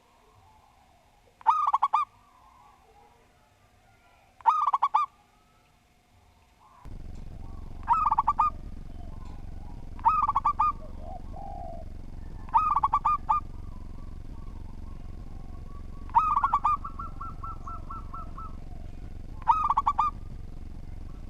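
Zebra dove (perkutut) singing its cooing song: a short phrase of quick bubbling notes, repeated seven times at even intervals of two to three seconds. About seven seconds in, a steady low hum of background noise comes in under the song.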